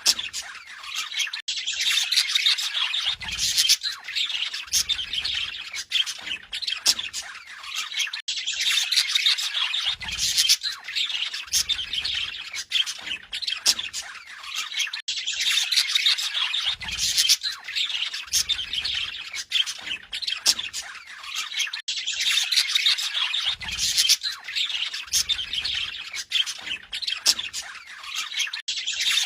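Budgerigar warbling: a continuous stream of fast chirps and squawks, with a stretch of chatter that repeats about every seven seconds.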